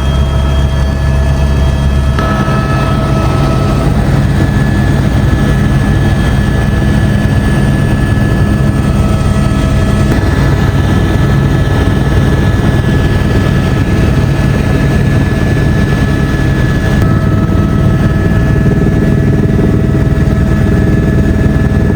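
Helicopter running: a loud, steady drone of engine and rotor with several steady whining tones over it, shifting slightly a few times.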